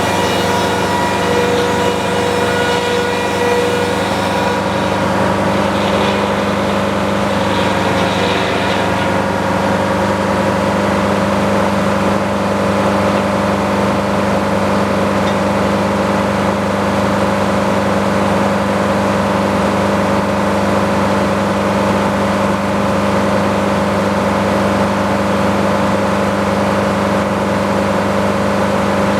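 Sawmill running steadily with a loud, constant engine-like drone. Higher-pitched whining tones sit over it for the first several seconds and fade out about nine seconds in.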